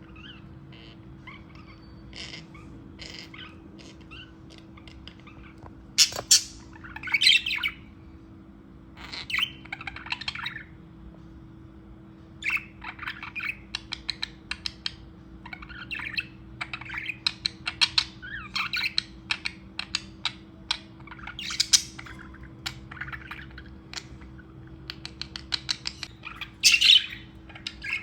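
Pet budgerigars chirping, chattering and squawking in irregular bursts, with louder squawks now and then. A steady low hum runs underneath.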